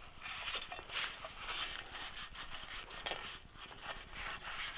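Rag wiping and scrubbing old oil and grey metal sludge out of a motorcycle transmission case: faint, irregular scratchy rubbing strokes.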